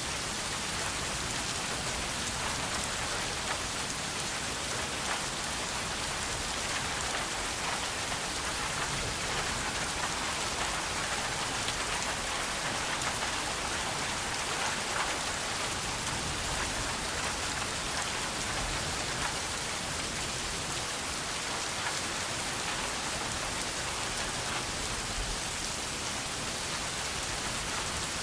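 Steady rain falling and pattering on surfaces, a continuous even hiss with fine scattered drop ticks.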